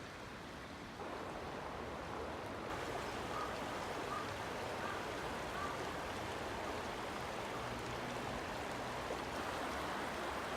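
River water flowing in a steady rush.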